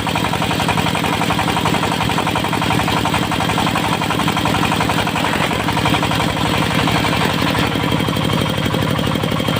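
Diesel engine of a portable circular-saw sawmill running steadily, with a fast, even knocking beat.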